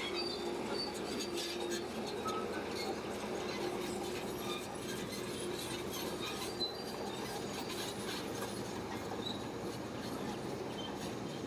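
Shantui crawler bulldozer running steadily, its engine a constant din with light metallic clinks and clanks from the steel tracks. A faint held tone sits under it for the first couple of seconds.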